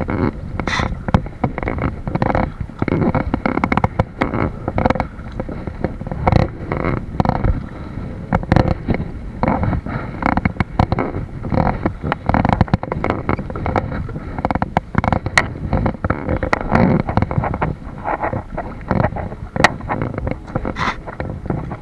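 Water splashing and knocking against a kayak, with wind rumbling on the microphone: a dense, irregular run of splashes and knocks with no steady rhythm.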